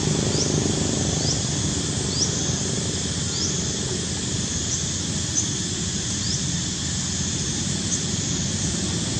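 Outdoor ambience: a steady low rumbling noise, with a short, high rising chirp repeating roughly once a second.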